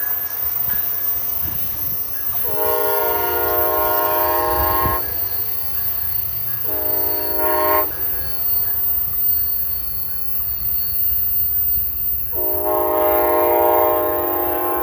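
Locomotive air horn sounding a chord in three blasts: a long one of about two and a half seconds, a short one about two seconds later, then another long one starting near the end. A steady low rumble of the train runs underneath.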